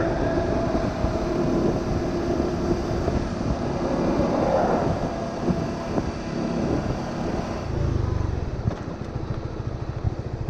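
Honda Winner 150's single-cylinder four-stroke engine running on the road, mixed with wind and traffic noise. Near the end it settles into a slow, even idle.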